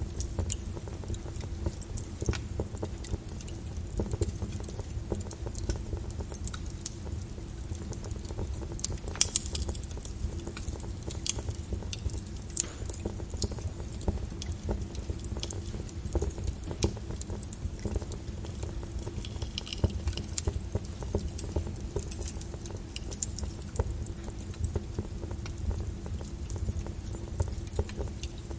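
Wood fire in a fireplace crackling steadily, with frequent sharp pops and snaps over a low rumble of the flames.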